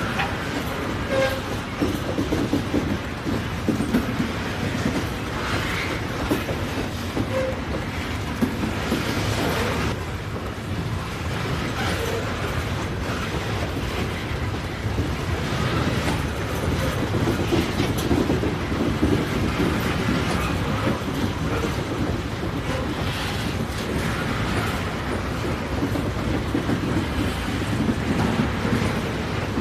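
Train running on the rails: a steady rumble of rolling railcars with scattered clicks of wheels over the track.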